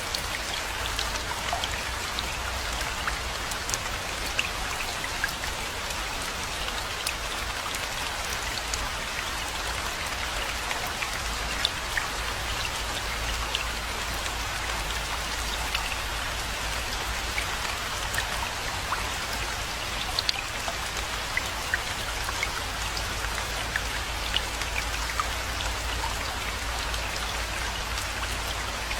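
Steady rainfall, with many individual drops ticking sharply close by over an even hiss and a low, steady rumble underneath.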